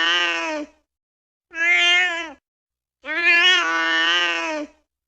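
Domestic cat meowing: three drawn-out meows with dead silence between them, the first already under way at the start and the last the longest, at well over a second.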